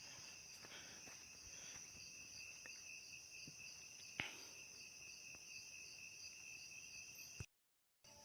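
Night insect chorus: crickets calling in steady, high, continuous trills, with a single sharp click about four seconds in. The sound cuts out abruptly near the end.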